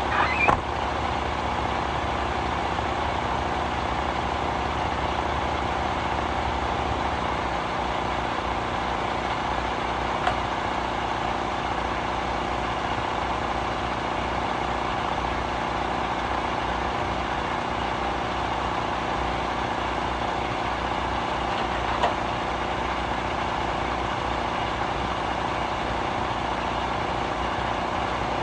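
Diesel semi-truck engine idling steadily, with a few short clicks or knocks near the start and twice later on.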